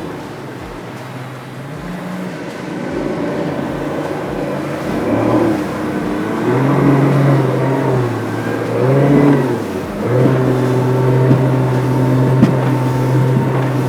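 Outboard motor driving a boat, its pitch rising and falling several times as the revs change, then holding steady for the last few seconds.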